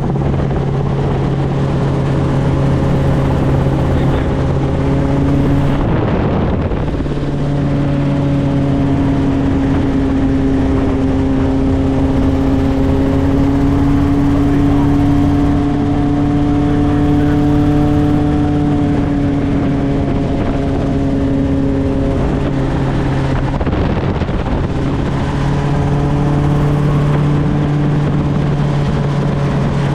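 Steady drone of a helicopter's engine and rotors with a hum whose pitch drifts slightly, broken twice by a brief rush of noise.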